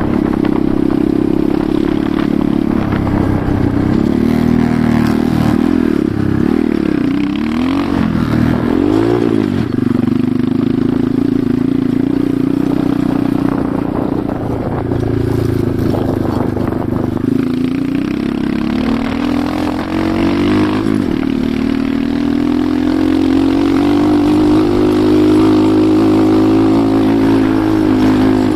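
Enduro motorcycle engine running while riding, the revs rising and falling several times in quick succession a few seconds in, then holding steadier and climbing again near the end.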